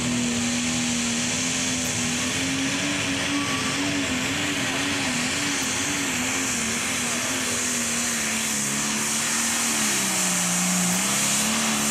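Pro Stock pulling tractor's turbocharged diesel engine running flat out under load as it pulls the weight sled, its pitch wavering steadily. About nine seconds in it sags lower, the engine loading down, then comes back up.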